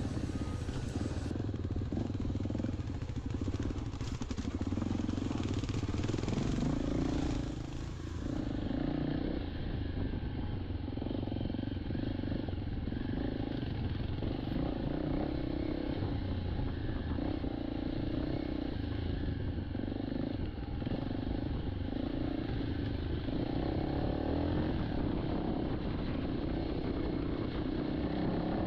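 Motorcycle engine running steadily while riding a rough dirt road.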